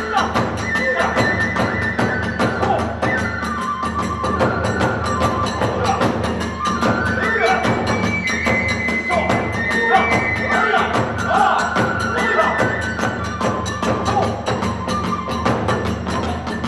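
Hiroshima kagura accompaniment: drums and small hand cymbals keep a fast, steady beat under a bamboo flute melody that holds and slides between notes.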